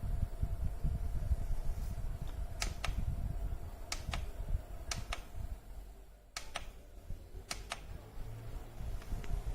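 Humidifier fan running with a steady hum over a low rumble, with pairs of sharp light clicks about once a second through the middle.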